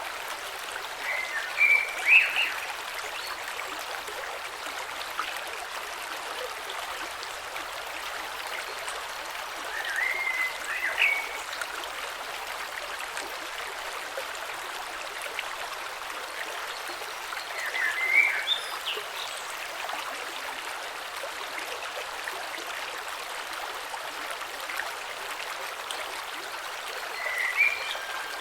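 Small creek flowing steadily over stones. Four short, high chirps stand out above the water, about eight seconds apart.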